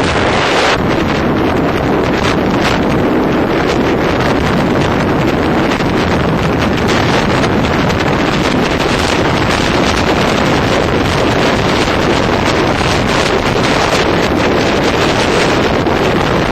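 Wind buffeting the microphone of a moving motorbike: a loud, steady rushing noise.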